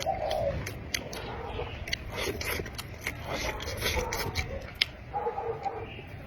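Close-miked eating: chewing with many wet, irregular mouth-smacking clicks.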